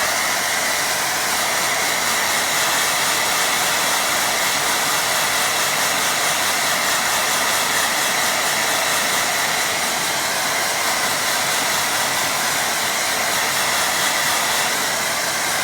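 Hair dryer running steadily, blowing on wet watercolour paint to dry it.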